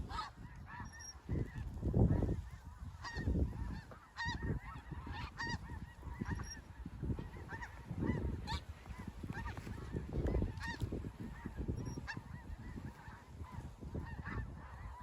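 A large flock of snow geese calling, with many short, high, repeated honks overlapping. Bursts of low rumble on the microphone come and go underneath.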